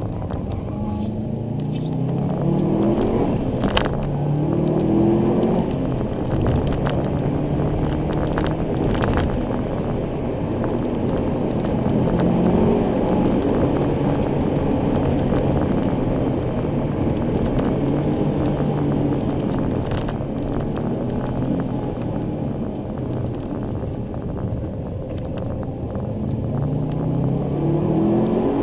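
2002 Subaru Impreza WRX STI's turbocharged flat-four engine heard from inside the cabin as the car is driven. Its pitch climbs and drops several times as it accelerates and shifts gear, over a steady rumble of tyre and road noise.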